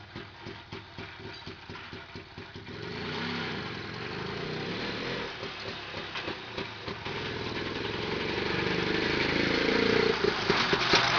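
Homemade walk-behind tractor's two-stroke engine, taken from a Soviet invalid carriage, running under way. It pulses unevenly at low revs for the first few seconds, then picks up and grows steadily louder as it revs toward the end.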